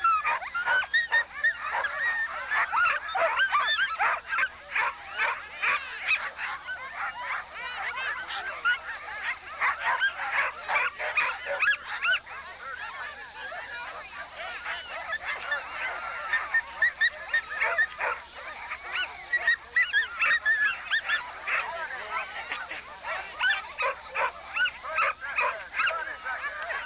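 A chorus of many sled dogs yelping and barking at once, a dense, unbroken din of overlapping high calls, typical of teams excited and straining to run.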